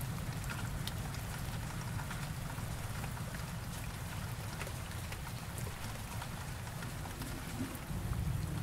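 Steady rain, scattered drops ticking over an even hiss, with a continuous low rumble underneath.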